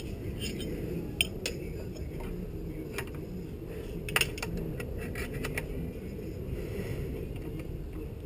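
Scattered metallic clinks and taps of hand tools against metal parts, a few sharp clicks, the loudest about a second in and about four seconds in, over a steady low hum.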